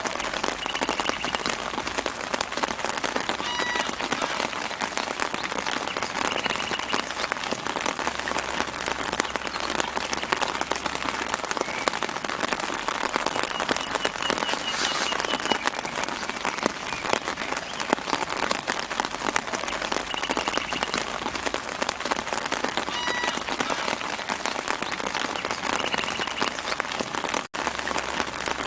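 Steady light rain falling on leaves, a dense hiss of many small drops, with short bird chirps now and then in the background. The sound cuts out for a split second near the end.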